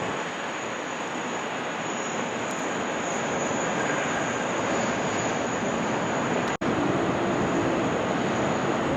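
Jet airliner engines running, a steady rushing noise with a thin high whine, heard across the airfield. The sound drops out for an instant about two-thirds of the way through.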